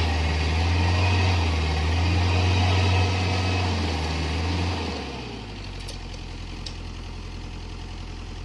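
Excavator diesel engine running hard with a steady low note, then easing down to a quieter idle about five seconds in.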